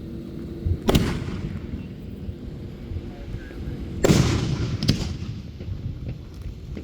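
Aerial fireworks shells bursting: three loud booms, about a second in and then twice close together near four and five seconds, each trailing off in a low rumble, with smaller cracks and a steady low rumble between them.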